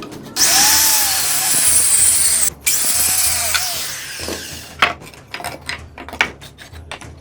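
Power tool cutting through a wooden plank: a loud run of about two seconds, a brief stop, then a second cut that trails off, followed by a few knocks as the wood is handled.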